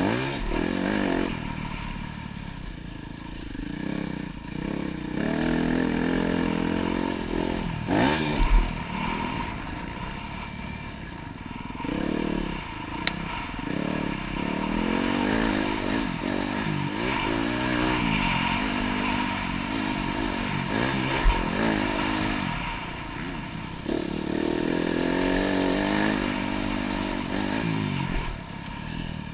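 Dirt bike engine revving up and dropping back over and over, its pitch climbing and falling with the throttle and gear changes while riding a motocross track, with a couple of sharp thumps about eight seconds in and again past twenty seconds.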